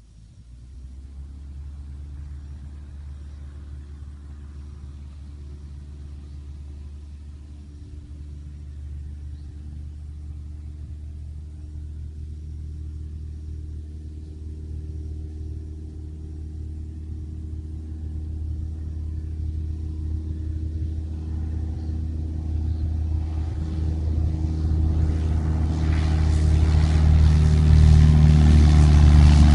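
Cessna light aircraft's piston engine and propeller running with a steady pitch, growing steadily louder and brighter and loudest near the end, as power comes up for the takeoff.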